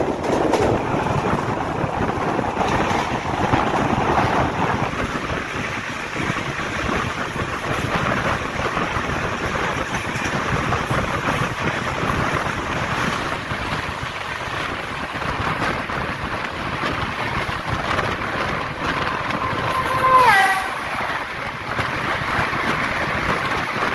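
Steady rush of wind and rail noise at the open door of a moving train as another train passes on the adjacent track. About 20 seconds in, a short horn blast drops in pitch.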